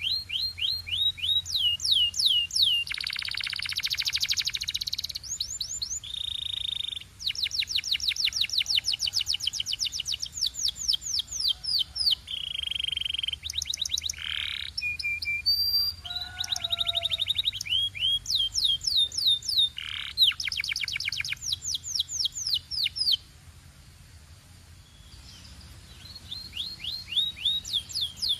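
Domestic canary singing a continuous song of rapid trills made of repeated falling chirps at changing speeds, with a buzzy roll and a few held whistled notes. Near the end the song stops for about two seconds, then the trills resume.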